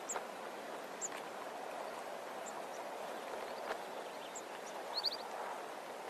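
Fan-tailed widowbird calling: thin, high single notes every second or so, then a quick run of three or four short notes about five seconds in, over a steady background hiss.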